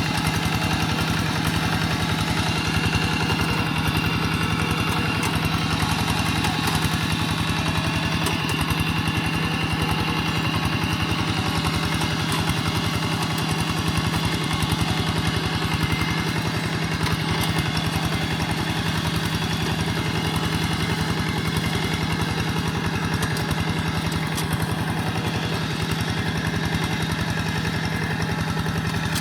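Quick G1000 walking tractor's engine running steadily with an even, rapid firing beat, pulling a moldboard plough through wet soil.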